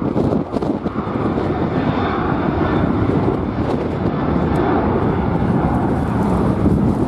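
Jet airliner engines running, heard through heavy wind buffeting on the microphone, with a faint high whine for a couple of seconds in the middle.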